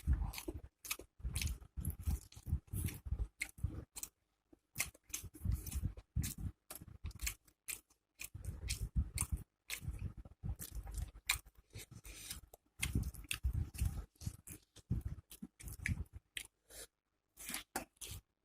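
Close-miked chewing of food by a person eating, with crisp crunching clicks, in bouts with short pauses.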